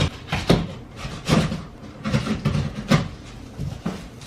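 Irregular knocks, taps and short scrapes from a newly delivered desk chair and its packaging being handled, about a dozen in a few seconds.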